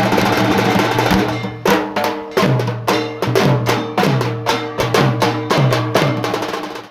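Drum-led percussion music: after a dense opening, a steady rhythm of sharp drum strokes, about three a second, the low drum's pitch falling after several strokes, with a bell-like metallic accent. It cuts off abruptly near the end.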